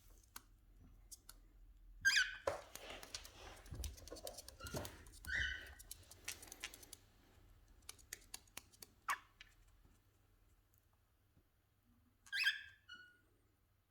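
Cockatiels squabbling over food: short harsh chirps every few seconds, with a quick run of small beak clicks and pecks in between.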